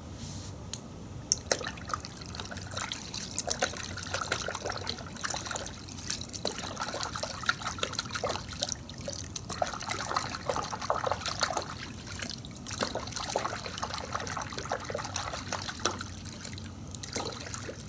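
Water splashing and trickling in a car wash bucket as soap is mixed into warm water, with many irregular bubbly splashes.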